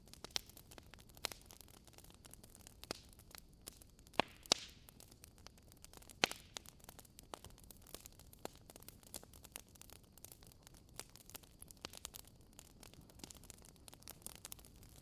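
Wood fire crackling in a fireplace: irregular sharp pops and snaps of burning logs over a faint steady hiss, with a few louder pops about four and six seconds in.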